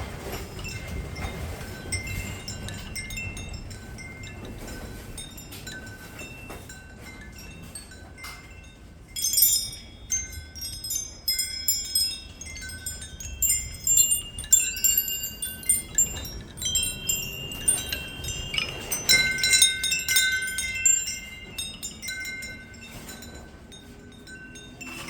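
Wind chime ringing: scattered single notes, then three louder jangles of many notes at once, about nine, fourteen and nineteen seconds in.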